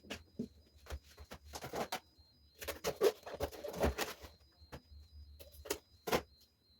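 Irregular knocks and clicks of items being handled and set down, with a busy stretch of rustling and clattering in the middle. A faint, evenly repeated high pip runs underneath.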